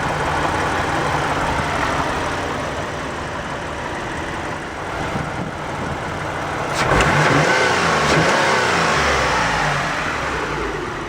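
Mitsubishi 3000GT's 3-litre dual overhead cam 24-valve V6 running under the open hood, a steady hum. About seven seconds in there is a sharp knock, then the engine note rises and falls several times.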